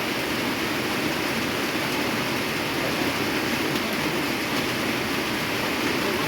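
Steady heavy rain drumming on a corrugated tin roof, an even rushing patter with no breaks.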